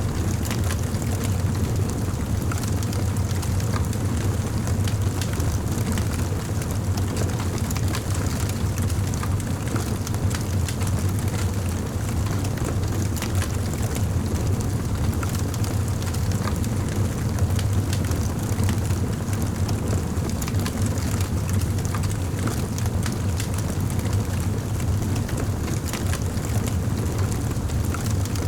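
Wood fire crackling in a fireplace: many small sharp pops and snaps over a steady low rumble.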